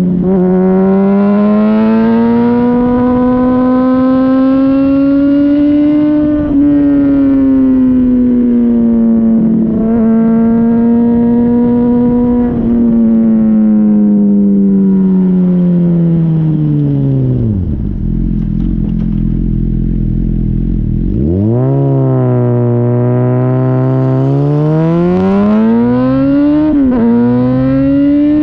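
Honda CBR600RR inline-four heard through a Yoshimura RS-5 exhaust while riding, loud and close to the muffler. The engine holds fairly steady revs with several brief dips as it shifts gear. About two-thirds of the way through the revs fall away to near idle for a few seconds, then climb again hard through the gears.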